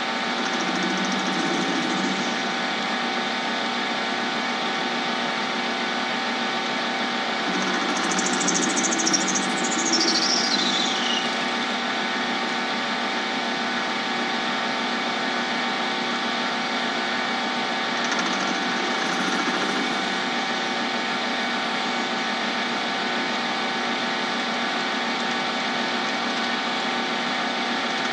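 Lathe running steadily with a constant motor whine while a cutting tool takes light passes on a PVC-cased resin blank. The cutting gets louder about eight seconds in, with a high squeal that falls in pitch, and again briefly near eighteen seconds.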